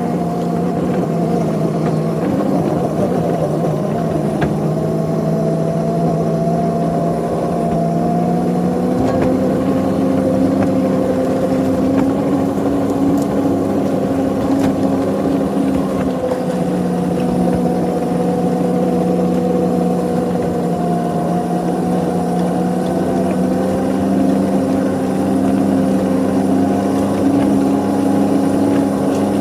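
Ride-on scale locomotive's engine running steadily under load while pulling a snow plow, its pitch drifting slightly up and down.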